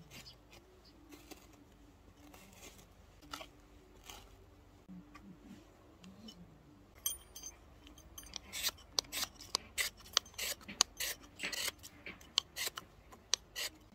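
Ferro rod (fire steel) struck repeatedly with its metal scraper to throw sparks onto hemp twine tinder: a few faint scrapes at first, then from about halfway in a run of sharp, rasping metallic strikes, two or three a second, growing louder.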